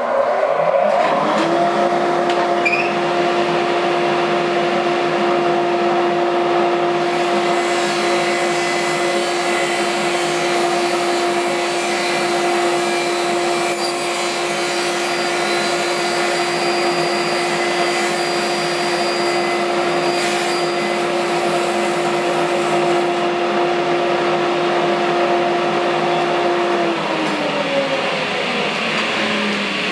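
Table saw started up and running steadily while its blade is cranked up through the template for a drop cut; the motor comes up to speed just after the start and, near the end, is switched off, its pitch falling as it winds down.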